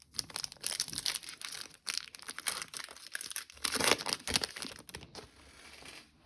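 Foil trading card pack wrapper being torn open and crinkled in the hands: an irregular, dense crackling, loudest about four seconds in.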